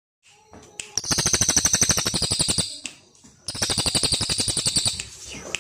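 Small songbird singing two rapid, rhythmic trills of quick repeated chirps, about a dozen notes a second. The first starts about a second in and the second about halfway through.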